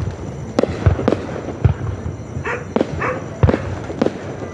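Fireworks bursting overhead: a run of sharp bangs at irregular intervals, about two a second, each with a short low rumble after it.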